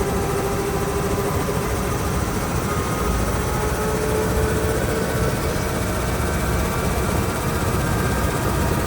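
Eurocopter EC145 helicopter's twin turbine engines and rotor running steadily.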